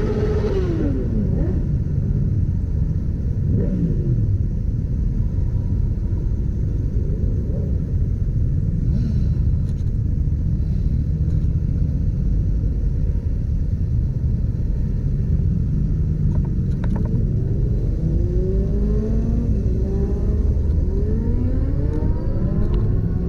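Motorcycle engine running under way over a steady low rumble. Its pitch falls in the first few seconds, then rises in repeated sweeps over the last several seconds as it accelerates through the gears.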